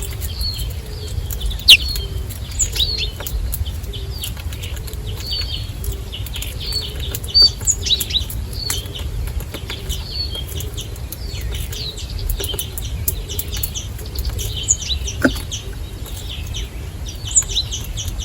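Small songbirds chirping with many short, quick calls, together with a few sharp clicks or taps, the loudest about two seconds in. A steady low rumble lies underneath.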